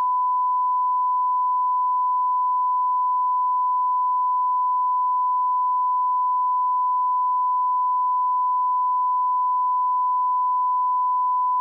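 Steady 1 kHz sine-wave line-up tone at −18 dB, a single pure pitch held at an unchanging level.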